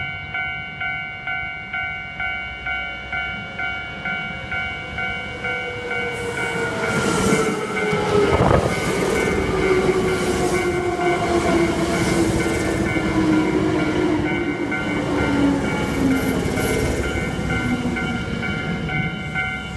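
A Hankyu electric train passing, its running noise building about six seconds in and a whine falling slowly in pitch over the next ten seconds. A warning signal of several steady tones pulses about twice a second all through.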